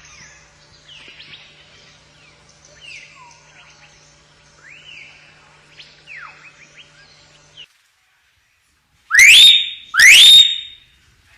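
Hill myna calling: faint sweeping whistles and chirps, then, after a short gap, two very loud rising whistles about a second apart, each climbing steeply and ending on a short held note.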